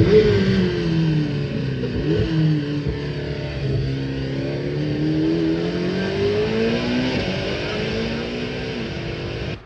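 Chevrolet Corvette ZR1's 5.5-litre twin-turbocharged flat-plane-crank LT7 V8 lapping a tight track: the engine note falls, dips briefly about two seconds in, then climbs for a few seconds, drops and climbs again as the car brakes and accelerates through corners. The sound cuts off suddenly at the very end.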